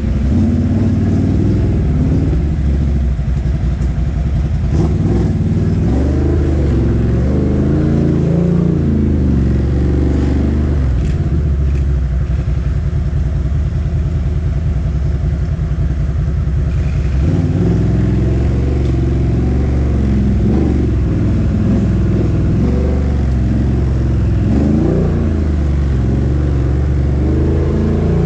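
ATV engine running under throttle, its pitch rising and falling as it revs. It settles to a steadier, lower note for several seconds around the middle, then revs up and down again.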